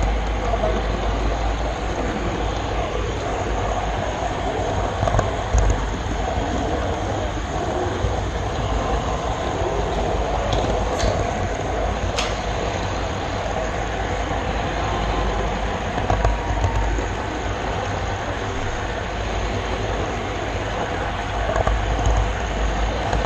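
Model railroad camera car rolling steadily along the layout's track, a continuous rumble and rattle heard from the camera riding on it, with a couple of sharp clicks about halfway through.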